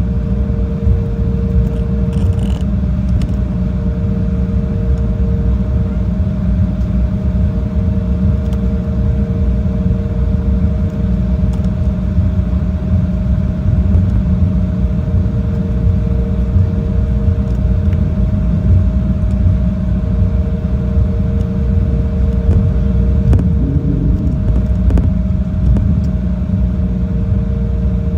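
Jet airliner cabin noise: a steady, loud low rumble from the engines and airflow, with a steady hum and a second, slightly lower hum that comes and goes.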